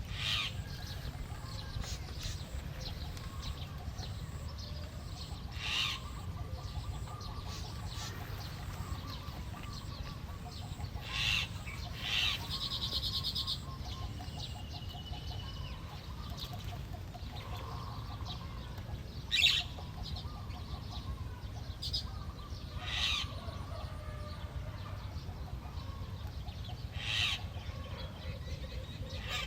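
Small birds calling in short, sharp chirps every few seconds, with a fast buzzy trill about twelve seconds in, over a steady low rumble of wind.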